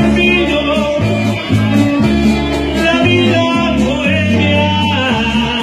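Live Latin American band music with singing over a steady bass line that changes note about every half second.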